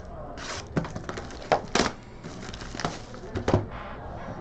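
Trading cards and their plastic holders being handled on a table: a handful of sharp taps and clicks with light rustling between them.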